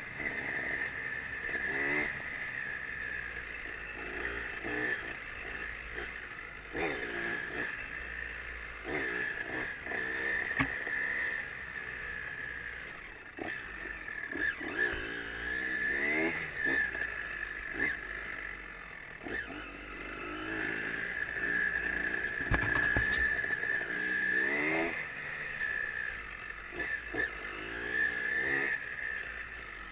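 Off-road trail motorcycle engine revving up and falling back over and over as the bike is ridden, with a steady high-pitched tone over it.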